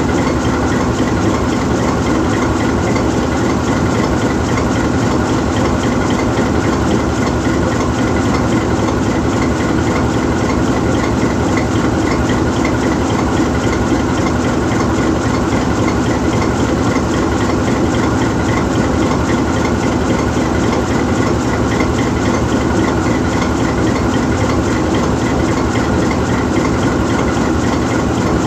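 GE U20C diesel-electric locomotive's 12-cylinder FDL diesel engine idling steadily, with an even, unchanging pitch.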